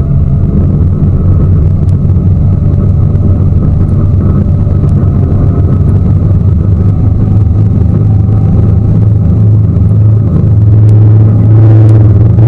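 Tour boat's engine running steadily under way, a loud low drone that grows somewhat louder from about eleven seconds in.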